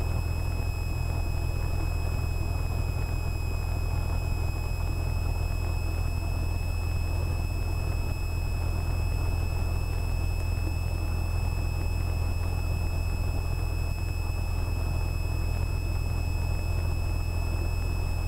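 Cessna 172R's four-cylinder Lycoming piston engine idling steadily on the ground after start-up, a low even rumble with a thin steady high-pitched whine over it.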